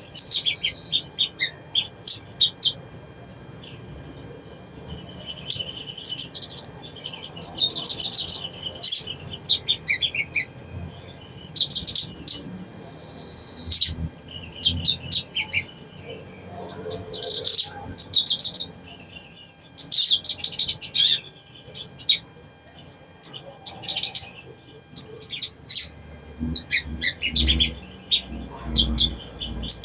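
Little spiderhunter (sogon) song: rapid, high chirping and trilled phrases in repeated bursts of one to two seconds, a lure call used to draw caged birds into singing. A few low thumps sound near the end.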